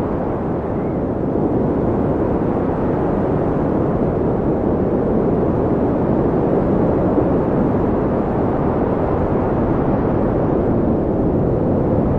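Steady, low rushing wind, with faint whistling tones wavering in pitch near the end.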